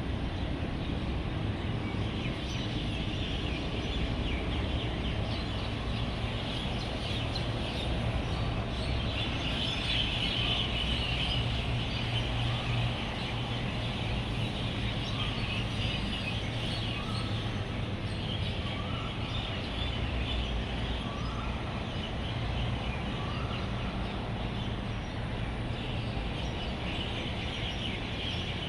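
A large flock of roosting birds chattering and chirping continuously, the chorus swelling about a third of the way in, over a steady rumble of road traffic.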